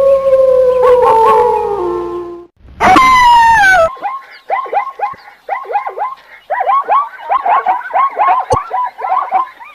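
A dog howling in one long held note that drops in pitch at the end. Then a short falling yelp, and from about four seconds in a quick run of short yips, several a second.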